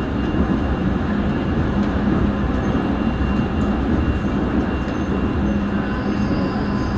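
Seoul Subway Line 1 electric train running at speed between stations, heard from inside the carriage: a steady rumble of wheels on rail, with a faint high steady tone above it.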